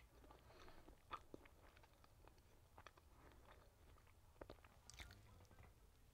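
Quiet, close-up mouth sounds of a person chewing food: soft, wet clicks at irregular intervals.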